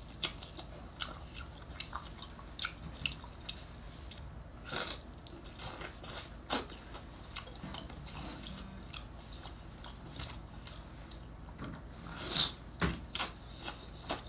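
A person chewing braised octopus: wet mouth smacks and squishy bites at irregular intervals, with a few louder ones about five seconds in, again a second later and near the end.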